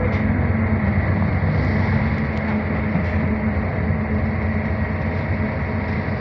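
Cabin noise of a Scania K320UB hybrid bus under way: a steady drone with a low hum and road noise.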